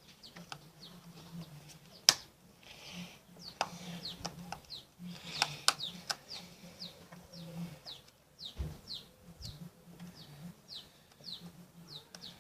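Birds chirping repeatedly in short, high, falling chirps, with a few sharp clicks, the loudest about two seconds in and another near six seconds.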